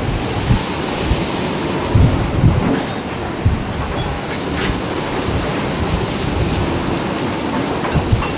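Boat at sea in heavy waves: a steady rumble of hull and engine noise with wind on the microphone, and irregular low thuds as the waves strike the hull.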